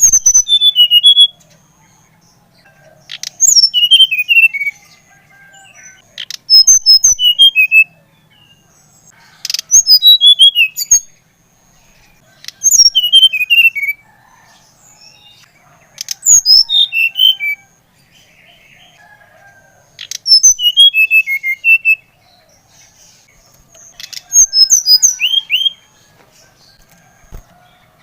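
SRDC (sikatan rimba dada coklat, a jungle flycatcher) singing: short phrases of high, falling chirps, repeated about every three seconds.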